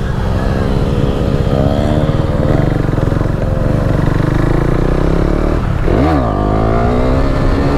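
KTM 390 Duke's single-cylinder engine running hard under the rider. About six seconds in the revs drop sharply and climb straight back, then rise as the bike accelerates.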